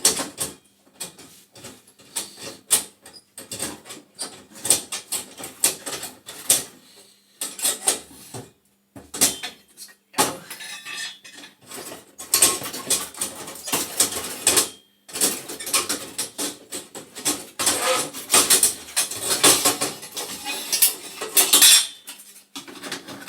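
Metal clattering and scraping as a gas boiler's burner is worked loose and slid out of the burner compartment: irregular knocks, rattles and scrapes, louder in stretches in the second half.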